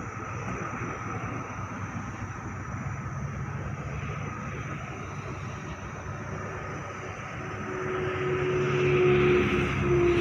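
Pilatus PC-7 MK II turboprop trainer approaching, its engine and propeller drone growing louder over the last few seconds, with a steady whining tone rising out of it.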